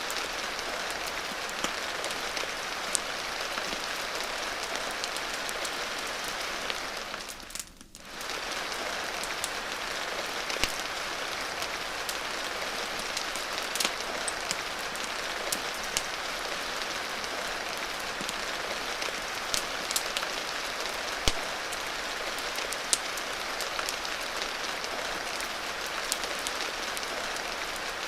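Steady rain hiss with scattered sharp pops and crackles, as from a wood fire. About a quarter of the way in, the sound briefly fades almost away and comes back within a second.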